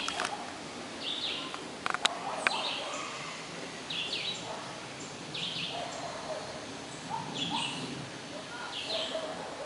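Birds calling outdoors: a short, high call repeated about once a second, with lower calls among them. A few sharp clicks about two seconds in.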